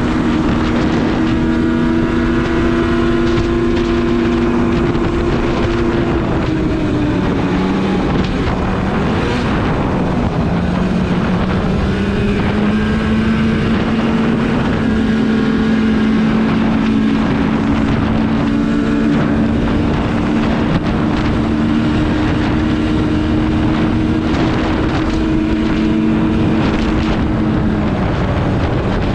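Polaris RMK snowmobile engine running at steady speed while riding, its pitch dropping about six seconds in and climbing again a few seconds later, with wind rushing over the microphone.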